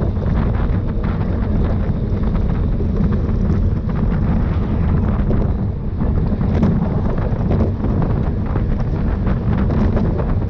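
Loud, steady wind buffeting a camera microphone carried on a bicycle moving at race speed, a dense low rumble with no let-up.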